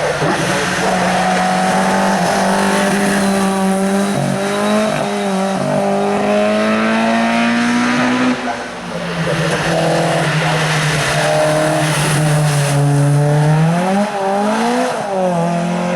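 Hill climb race car engine running hard under load. Its pitch climbs slowly, dips briefly about four and five seconds in, and drops about eight seconds in. It gives a couple of quick revs near the end.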